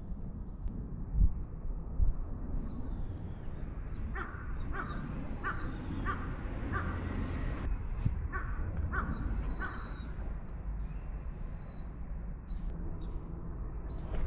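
A crow cawing, a string of about eight short caws between about four and ten seconds in, with small birds chirping high above and a steady low outdoor rumble.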